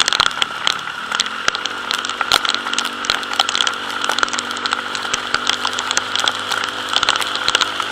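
Motor scooter engine running at a fairly even speed, with a slight rise in pitch near the start. Over it come many quick, irregular taps of rain striking the chin-mounted camera.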